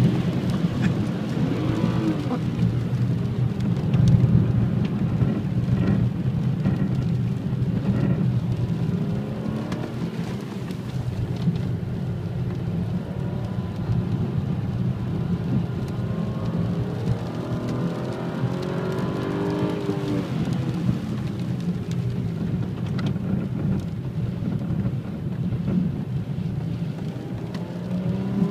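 BMW 335i's turbocharged straight-six engine heard from inside the cabin while driving, its revs rising and falling about two seconds in and again around the middle, over a steady low rumble and hiss of tyres on the wet track.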